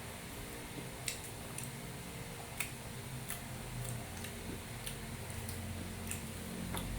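A person eating beef kare-kare with rice close to the microphone: chewing, with thin sharp mouth clicks and smacks coming irregularly, roughly one a second.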